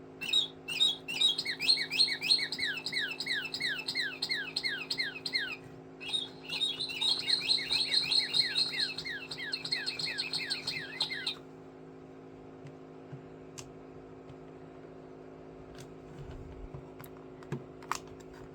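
Bird song: two long runs of rapid, evenly repeated descending whistled notes, about four or five a second, the second run denser and higher. A steady low hum runs underneath, and a few faint clicks come near the end.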